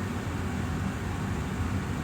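Austin Air HealthMate air purifier's fan running steadily, a constant whoosh of air drawn through its filters.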